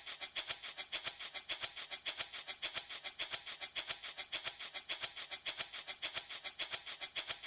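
Handmade baby rattle shaken in a fast, even rhythm, about eight strokes a second, giving a crisp, high rattle of small beads or grains that keeps on without a break.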